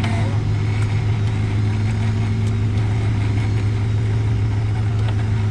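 Off-road 4x4's engine running at low, even revs: a steady low drone with no revving.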